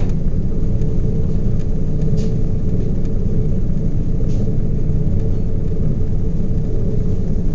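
Ship's engine and machinery running under way: a steady low rumble with a constant hum over it.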